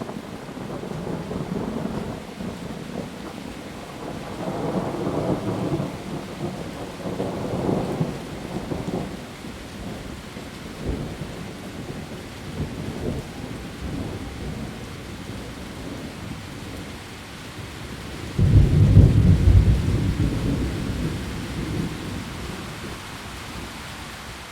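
Heavy rain falling on leaves, with thunder rumbling through it: rolling swells in the first third, then a sudden loud crack of low thunder about three-quarters of the way in that fades away over several seconds.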